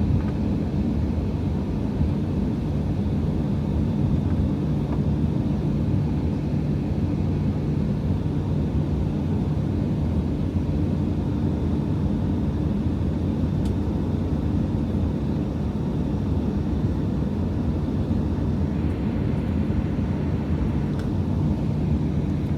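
Steady low drone inside a jet airliner's cabin, with its engines running while the plane is still on the ground before takeoff. A few low, even hums sit under the noise.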